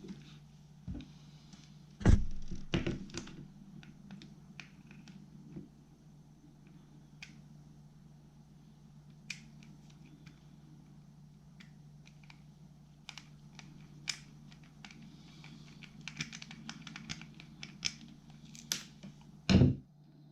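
Small clicks, taps and scratches of a fishing reel's parts and tools being handled during disassembly, with a louder knock about two seconds in and another near the end, over a steady low hum.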